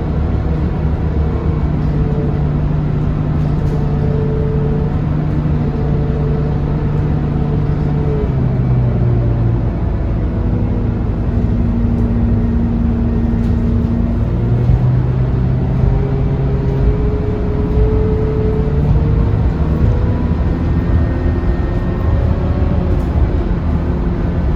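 Scania K230UB city bus's diesel engine running as the bus drives, with road noise. Its note shifts in steps a few times.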